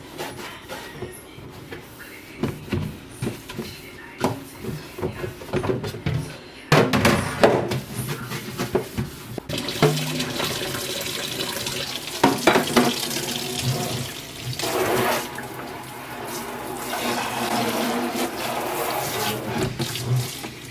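Kitchen tap running into a sink while removable fridge drawers and shelves are washed, with repeated knocks and clatters of the plastic parts against the sink.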